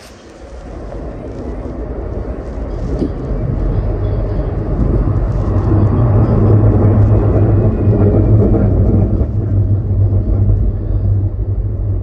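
Light rail train running, its low rumble growing louder over the first several seconds and then holding steady.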